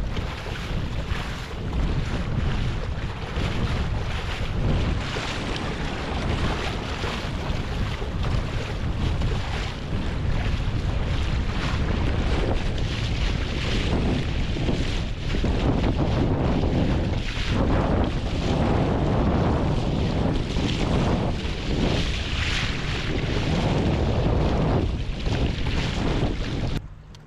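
Wind buffeting the microphone: a loud, uneven rumble and hiss that rises and falls in gusts, then cuts off suddenly near the end.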